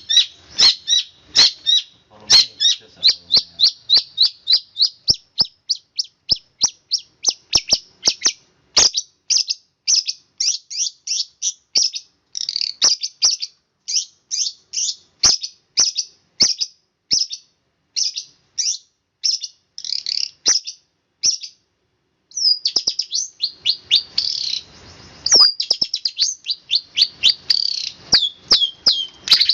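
Long-tailed shrike (cendet) singing a fast, tightly packed run of short, high chirping notes, about three or four a second, with a brief pause about three-quarters of the way through.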